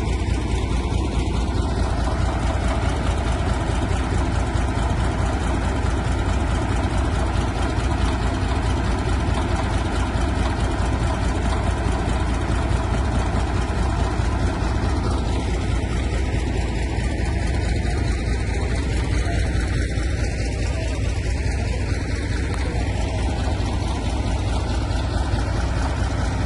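Crawler tractor's diesel engine running steadily at a constant level.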